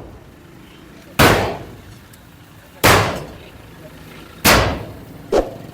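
Heavy hammer blows struck at a steady pace, about one every second and a half, three loud strikes each with a short ringing tail, then a lighter knock near the end.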